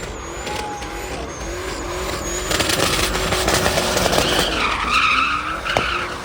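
A car engine running hard under throttle, growing louder about two and a half seconds in, with tyres squealing from about four seconds in.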